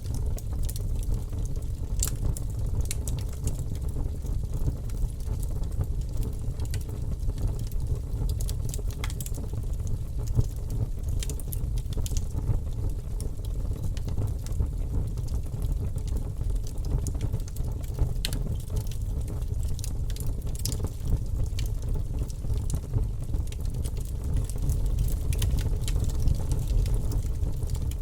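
Wood campfire burning: a steady low rumble with scattered sharp crackles and pops from the burning wood.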